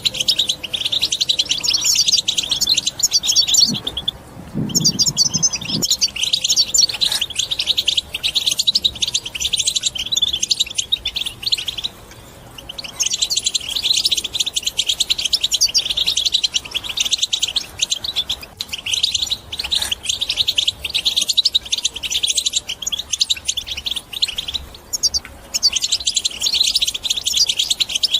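European goldfinch singing its rapid, twittering chatter song in long runs, with short pauses about four, twelve and twenty-five seconds in.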